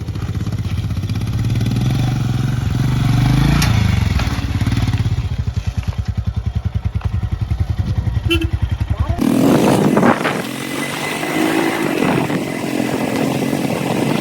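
Motorcycle engine running with a steady, pulsing low beat. About nine seconds in, the sound cuts abruptly to a steady rushing noise.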